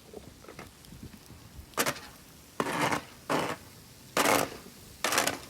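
Footsteps crunching through deep fresh snow: five crunches at a walking pace, starting about two seconds in.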